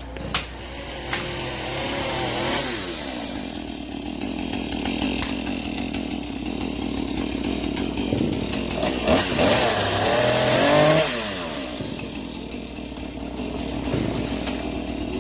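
Chainsaw running and revving up and down, loudest about nine to eleven seconds in.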